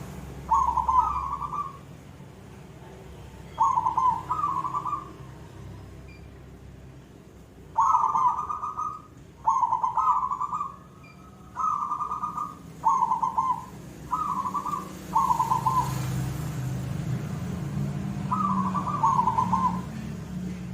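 Zebra dove (perkutut) singing, a series of short, rapid cooing phrases repeated every one to four seconds.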